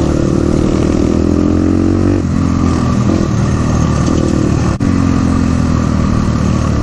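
Crossfire RM250 dirt bike engine running on the move, with a steady rush of wind noise. The engine note breaks off and picks up again about two seconds in and once more just before five seconds.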